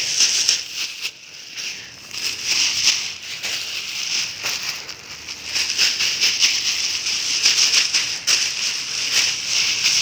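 Dry leaves rustling as a bag of them is shaken out into a trench, a dense run of small crisp crackles that rises and falls.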